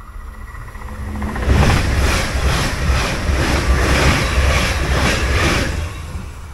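Passenger train passing at high speed close by: a rush of wheel and rail noise that builds over the first second or so, with a regular clatter of wheels over the rails about two to three beats a second, then fades near the end.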